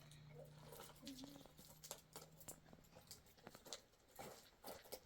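Near silence: faint scattered clicks and rustles, with a low steady hum that fades out about three seconds in.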